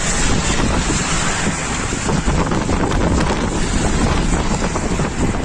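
Strong storm wind blowing across the microphone: loud, steady noise buffeting the mic.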